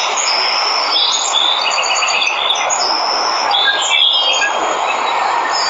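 Steady rush of falling water from a waterfall, with several birds chirping and trilling over it in quick short notes.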